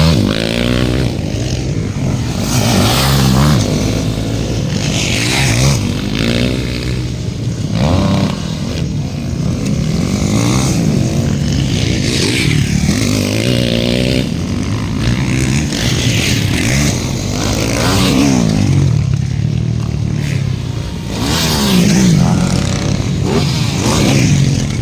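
Motocross dirt bikes racing, their engines revving up and dropping back again and again as riders pass through the course.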